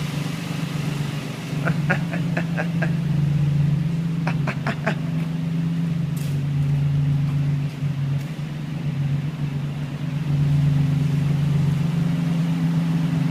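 Nissan 350Z's 3.5-litre V6 idling steadily through an HKS exhaust with no catalytic converters, warming up after sitting unstarted for months.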